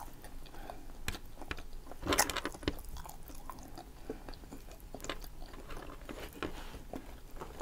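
A person chewing and biting fries and cheesesteak, a string of small crunches and mouth clicks, loudest about two seconds in.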